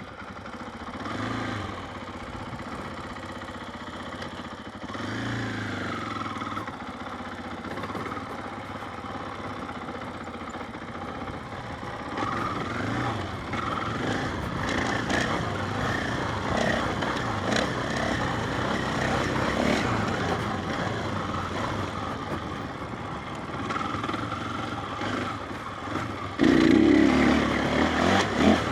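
KTM 500 EXC single-cylinder four-stroke dirt bike engine revving up and down under riding, picked up by a mic inside the rider's helmet. It gets suddenly louder near the end.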